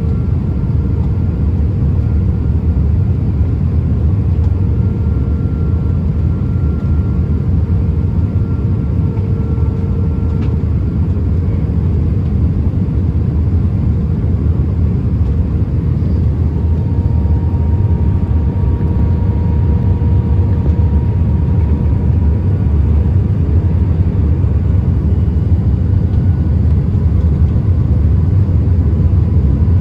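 Airbus A319 cabin noise: a steady, loud rumble of engines and airflow, with faint steady whining tones above it.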